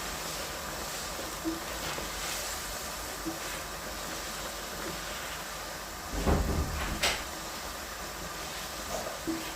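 A steady hiss with a few light clicks, and a heavier knock about six seconds in followed by a sharp click.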